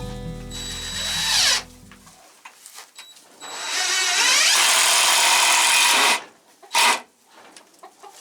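Power drill running in bursts: a short run about a second in, a steady run of about two and a half seconds mid-way, and a brief one near the end.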